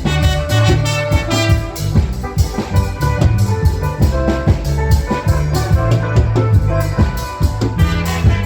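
Live band playing an instrumental passage: bass guitar, drum kit with a steady beat, and keyboard or guitar chords.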